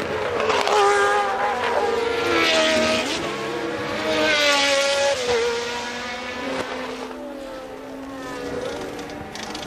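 1982 Formula One race car engines at high revs, their pitch stepping with gear changes and sliding down as the cars go by; the sound fades in the second half.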